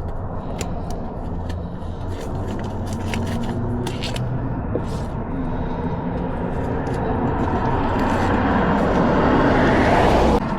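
A motor vehicle running, with a low steady engine note and a rushing noise that builds louder over the last few seconds, then cuts off abruptly just before the end.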